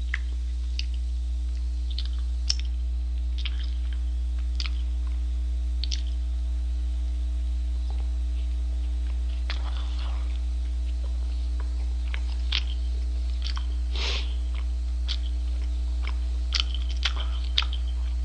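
A man chewing a mouthful of a McDonald's Double Quarter Pounder with Cheese burger: short, irregular smacking clicks of the mouth, over a steady low hum.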